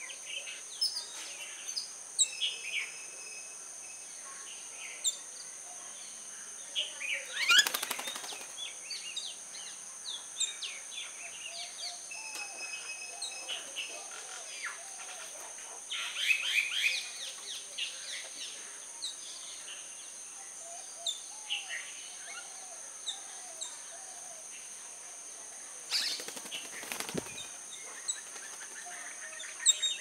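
Birds chirping and calling around a feeder while common mynas feed, with two short bursts of rapid wing-flapping, about seven seconds in and again near the end. A steady high-pitched buzz sits under it throughout.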